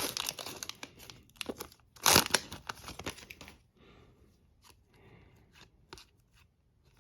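Crinkly plastic wrapper of a trading-card pack being torn open and crumpled, with a sharp loud tear about two seconds in and smaller rustles after it; then only faint clicks from the cards being handled.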